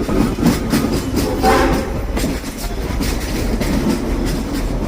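Frisco Silver Dollar Line steam train rolling along with a steady low rumble and wheels clicking over rail joints; a brief pitched sound comes about a second and a half in.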